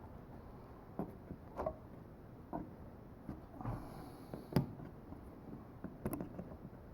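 Scattered small clicks and taps, about seven at uneven spacing, from hands working a manual HO-scale model railroad turntable and its track.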